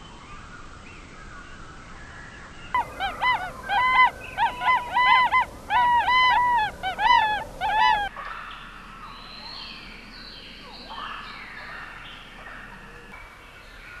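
Birds calling loudly in a rapid series of short rising-and-falling notes for about five seconds. The calls stop suddenly and give way to fainter scattered chirps and whistles.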